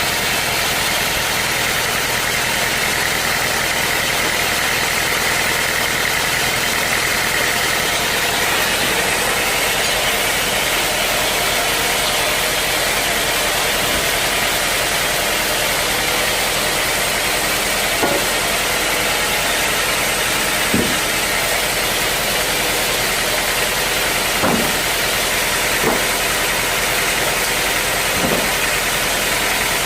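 Sawmill machinery running steadily with a constant drone. A higher whine through the first several seconds fades out, and about five sharp knocks come in the second half.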